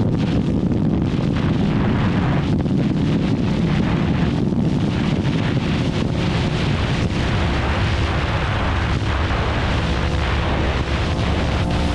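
Ducati Hypermotard motorcycle engine running while riding, heavily mixed with wind buffeting the microphone. The engine note holds fairly steady, settling into a clearer, even pitch near the end.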